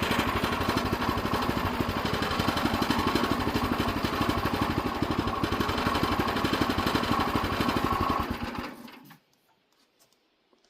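Sawmill's small gasoline engine running steadily at idle, then shut off about eight seconds in, winding down quickly to silence.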